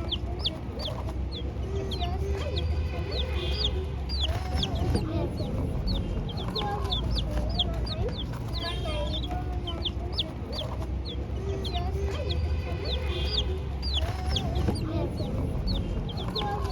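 A group of chicks cheeping continuously: a dense run of short, high, downward-sliding peeps, with lower wavering calls underneath.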